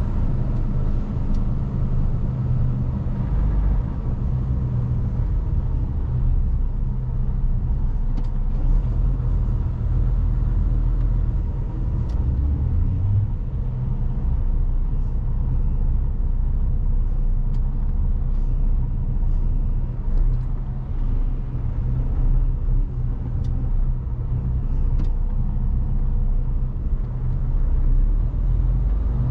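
Mercedes-Benz Actros truck's diesel engine running with a steady low rumble as the truck drives, a few faint clicks and rattles over it.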